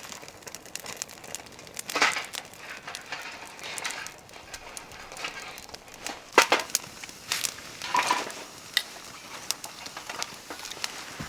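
Wood fire crackling in a campfire stand, with scattered sharp pops, and a few louder rustling or handling noises at about two, six and eight seconds in.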